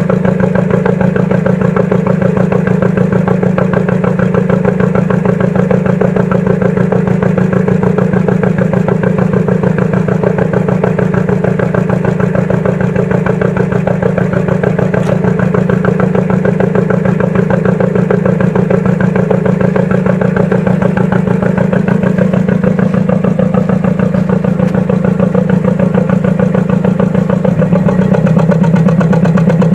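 An engine running steadily, its pitch dropping slightly and the sound getting a little louder near the end.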